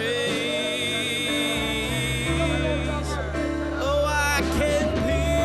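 Worship music: a voice singing long, wavering held notes over sustained chords and a steady bass.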